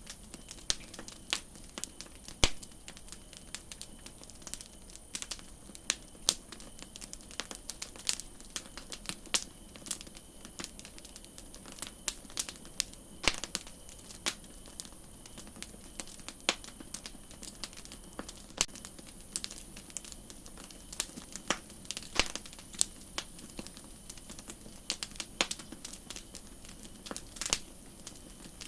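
Wood campfire crackling: irregular sharp pops and snaps of varying strength over a steady hiss. A high hiss grows a little louder about two-thirds of the way through.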